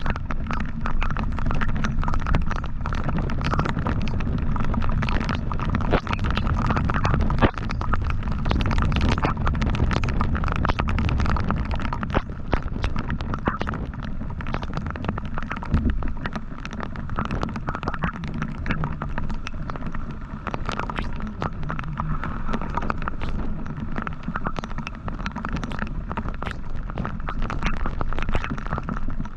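Wind buffeting the microphone of a moving motorcycle, over the low, steady rumble of the engine and road, with frequent short crackles.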